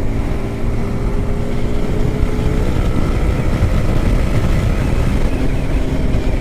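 Yamaha R15M motorcycle's single-cylinder engine running steadily while riding along, with heavy wind rumble on the helmet-mounted mic.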